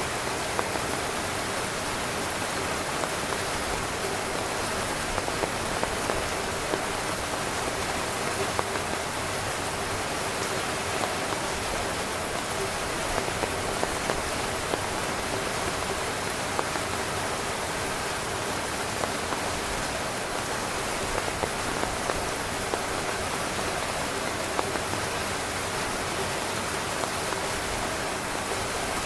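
Heavy rain falling steadily on a camping tent: a dense, unbroken patter of drops hitting the tent fabric.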